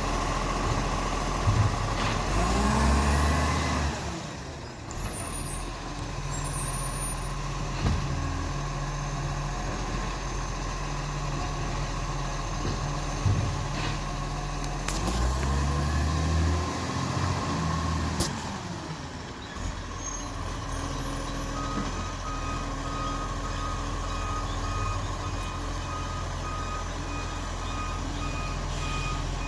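Garbage truck's diesel engine running, revving up and back down twice. Its reversing beeper starts about two-thirds of the way through and keeps beeping.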